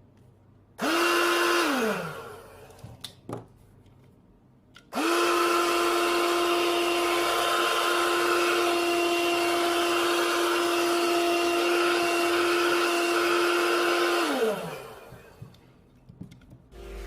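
Small electric motor of a homemade PVC-pipe vacuum cleaner whining with a rush of air: switched on for about a second and let spin down, then run steadily for about nine seconds before being switched off and winding down.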